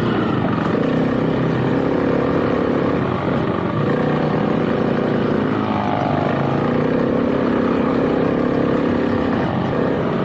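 Motorcycle engine running while riding, heard from on the bike, its pitch wavering as the throttle changes and easing briefly a few seconds in, over a steady rush of wind and road noise.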